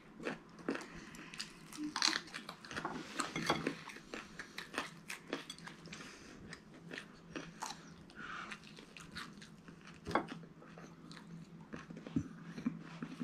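Close-up chewing and biting of crunchy fried chicken, with irregular crisp crunches and mouth sounds, over a faint steady low hum.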